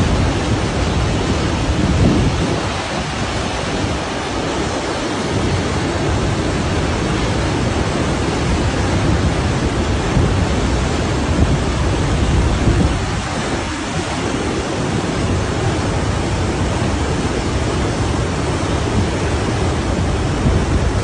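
Flash-flood water rushing: a loud, steady noisy rush with a heavy low rumble underneath.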